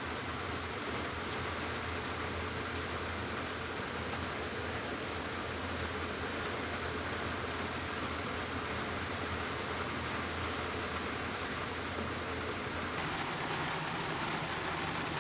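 Steady rain, not pounding, heard from inside a bus through an open window: an even hiss of falling rain with no break.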